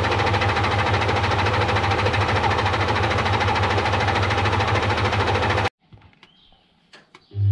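Washing machine running with balloons and cubes in the drum: a steady low hum under a rapid, continuous rattle, cutting off abruptly about six seconds in. Music begins near the end.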